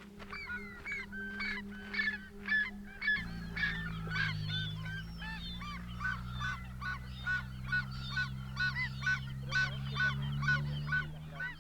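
A bird calling over and over in quick, short arched notes, about two to three a second, over a sustained low music drone that shifts chord about three seconds in.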